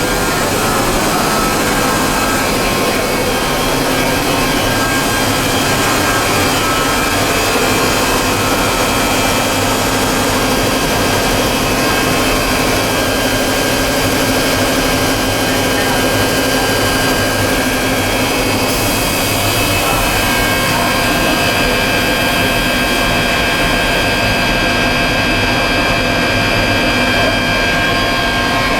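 Machinery of a PE and calcium carbonate pelletizing line running steadily: a loud, constant drone of motors with several steady whining tones over it.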